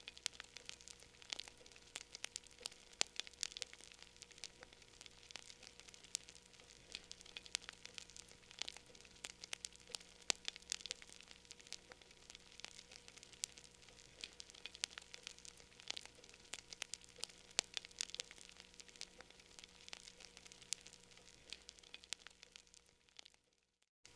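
Wood fire crackling in a fireplace: a dense, irregular run of sharp pops and snaps over a soft hiss. The sound cuts out briefly near the end.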